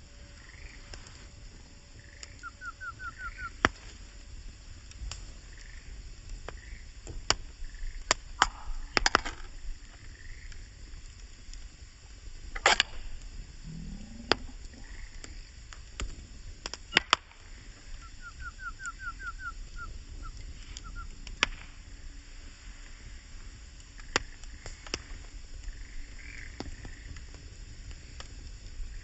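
Wood fire crackling with scattered sharp pops and snaps. In the background, animal calls: a short rapid trill twice and soft chirps repeating every second or so.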